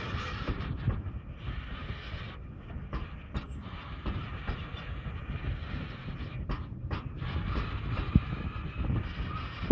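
Freight train of covered hopper wagons rolling past close by: a steady rumble of steel wheels on the rails with repeated clacks, and one sharper bang about eight seconds in.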